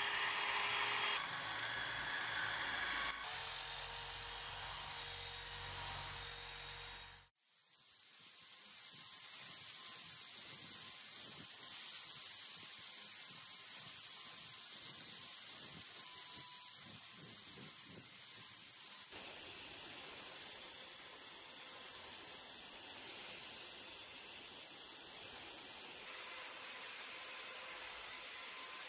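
A small power tool running steadily for about seven seconds, cut off suddenly, followed by a steady hiss.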